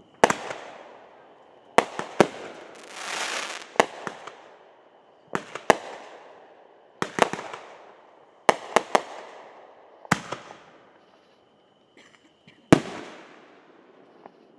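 Consumer fireworks going off: a string of sharp bangs every second or two, each fading out with an echo. About three seconds in there is a longer crackling burst.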